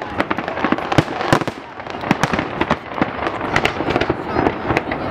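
Aerial fireworks shells bursting in rapid, irregular succession, many bangs overlapping one another without a break.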